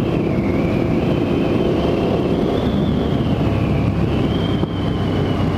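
Motorcycle engine running steadily while riding, with a high whine that slowly rises and falls in pitch.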